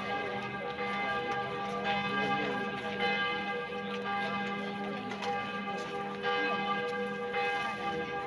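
Church bells pealing: several bells ringing together, fresh strikes about once a second over their long ringing tones, with a crowd chattering faintly underneath.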